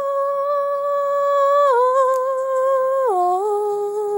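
A woman humming long held notes in a slow descending tune, stepping lower about halfway through and again near the end.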